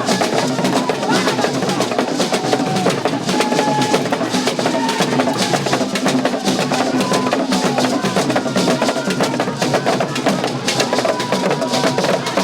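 Drum and percussion music: dense, rapid drum and wood-block-like strokes keeping a steady rhythm.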